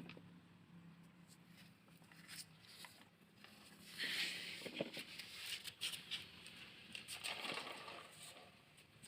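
Plastic toy trucks handled and pushed along a surface: scraping and rustling with scattered clicks, in two louder stretches about four and seven seconds in.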